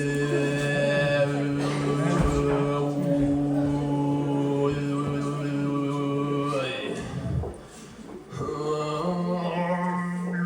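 Tuvan-style throat singing: a man holds one steady low drone note rich in overtones, with higher overtone lines above it. Near the middle the note breaks off for a breath, and a new, slightly higher drone note starts a couple of seconds later.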